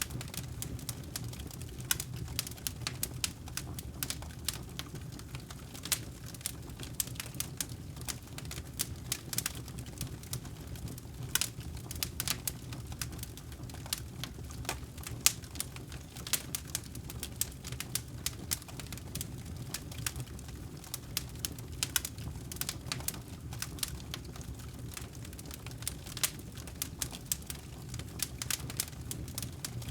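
Fireplace fire crackling: irregular sharp pops and snaps, several a second, over a low steady rumble of burning.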